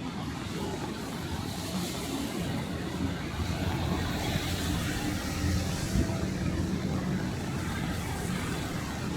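Steady city street noise with cars going by and a low rumble throughout, and a short thump about six seconds in.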